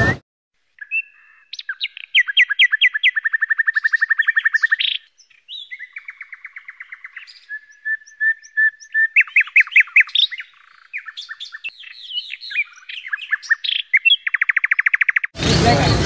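Bird song: a run of chirps and fast, evenly pulsed trills with a few held whistled notes, clean with no background noise, as from a recorded clip. It cuts off abruptly near the end as crowd noise comes back in.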